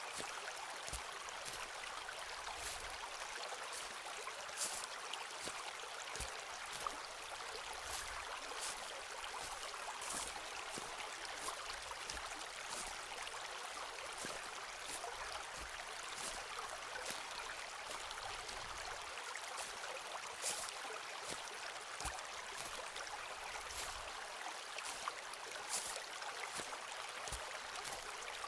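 Slow footsteps on a forest floor, soft thuds every second or two with small crunches and snaps of leaves and twigs, over the steady rush of a stream.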